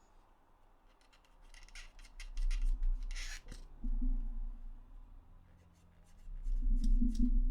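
Hands working on plastic controller parts: a run of small clicks and a brief scrape, then two low rumbling knocks of handling on the bench, the second near the end.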